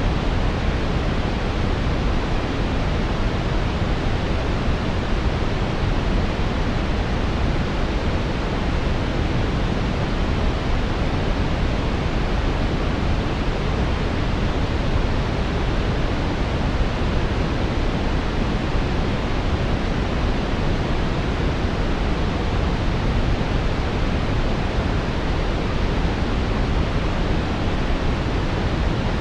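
Steady brown noise: an even, unbroken rushing hiss weighted toward the low end, with no changes or events.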